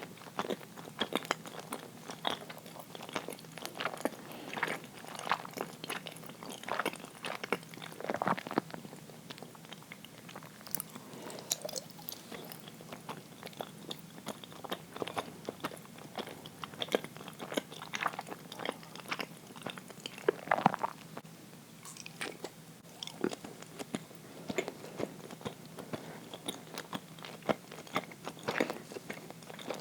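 Close-up chewing and biting of uirō, a soft, sticky Japanese steamed rice-flour sweet: wet, smacking mouth sounds in many short, irregular strokes.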